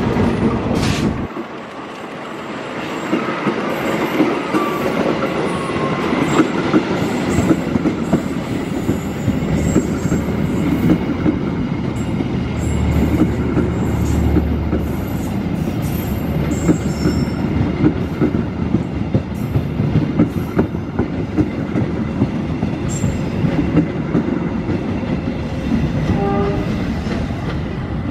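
Passenger train coaches rolling past at speed, with a steady rumble and the wheels clattering over the rail joints. The sound eases off near the end as the last coach draws away.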